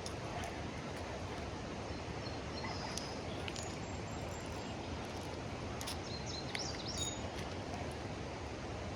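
Steady rushing of river rapids, with a few faint bird chirps.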